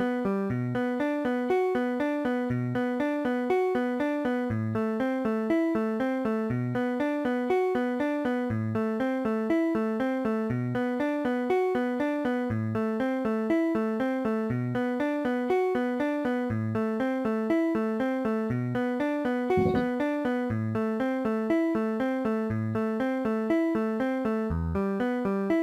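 MIDI playback of a guitar arrangement from notation software, with synthesized keyboard-like tones. A steady, evenly paced stream of short notes runs over a low bass note about every two seconds.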